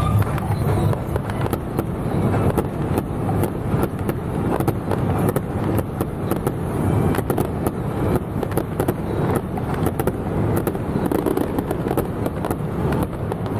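Fireworks crackling in a rapid, irregular string of sharp pops over a steady low rumble.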